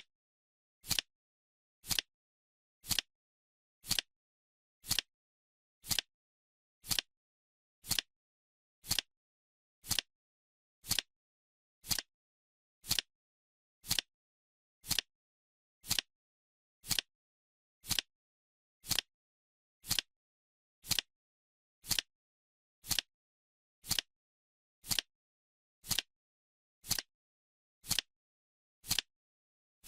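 Timer ticking once a second, each a short sharp click with silence between.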